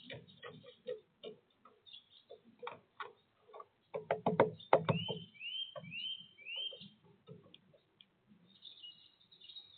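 Irregular taps and knocks of a woodpecker pecking at sunflower seeds on a feeder, heaviest about halfway through, followed by a bird giving four short rising chirps.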